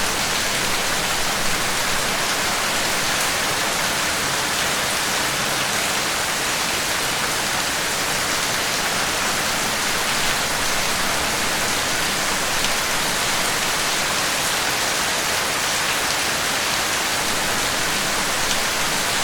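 Steady rain falling and pattering on a surface, an even hiss with faint drop ticks and no thunder.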